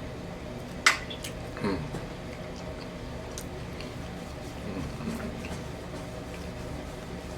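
Wet, squishy mouth sounds of someone eating close to the microphone, with a sharp click about a second in, over a steady low hum.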